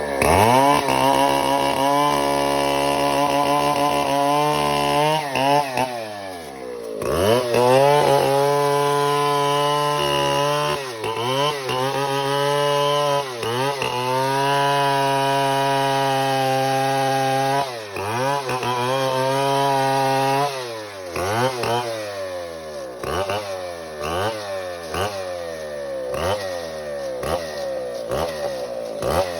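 Stihl 070 two-stroke chainsaw cutting wood, held at steady high revs in several long stretches with short drops in between. In the last third it is revved in short bursts about once a second.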